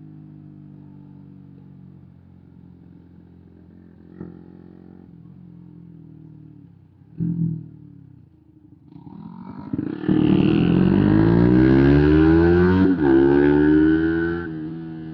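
125 cc single-cylinder motorcycle engine idling, a short throttle blip about seven seconds in, then accelerating hard with the engine note climbing in pitch, one gear change near the end of the climb, and climbing again before easing off.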